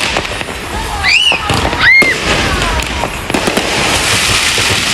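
Fireworks crackling and popping in a dense stream, with two whistles that rise and fall in pitch about a second and two seconds in, the second one loudest.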